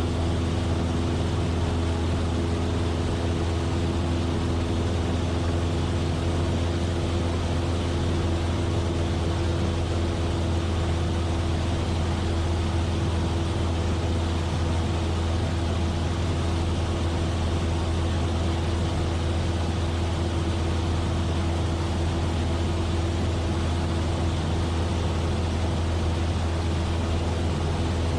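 Cessna 172F's Continental O-300 six-cylinder engine and propeller running steadily in cruise: a strong low drone with a few steady higher tones over an even rush of air, unchanging throughout.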